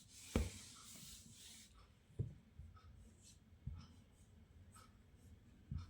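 Faint writing sounds: a scratchy stroke over the first couple of seconds, then four light taps of the pen spread through the rest.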